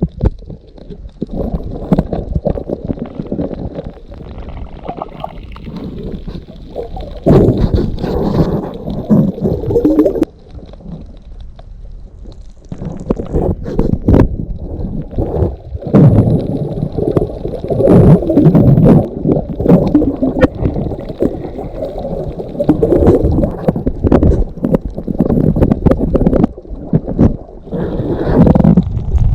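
Muffled water sloshing and gurgling around a camera during a free dive, in irregular low surges with short quieter gaps.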